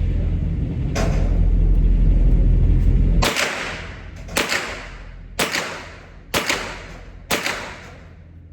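Pistol shots fired at a steady pace, five sharp cracks about a second apart, each with a short ringing tail. A heavy low rumble runs for the first three seconds and stops as the first shot goes off.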